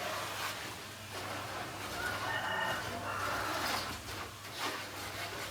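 A chicken calling, with a drawn-out call about two seconds in.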